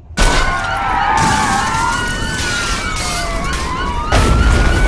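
Several police sirens wailing at once, their pitches sweeping up and down over each other, over a loud wash of street noise. The sound cuts in suddenly just after the start, and the low rumble grows louder about four seconds in.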